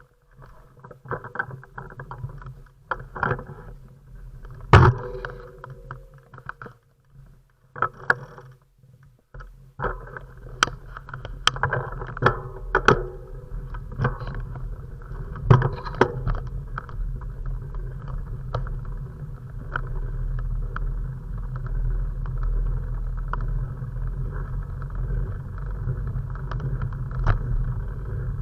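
Sharp knocks and clicks of the camera being handled and set up. About ten seconds in, a steady low rumble of riding takes over, with occasional rattles and clicks.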